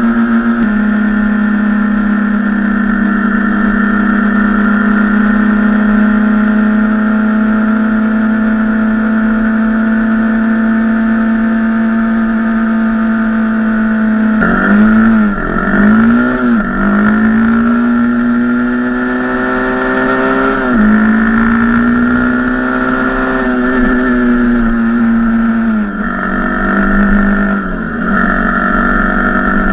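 Dirt bike engine running on the move, holding a steady pitch for the first half. From about halfway it drops and climbs again several times as the throttle is closed and reopened.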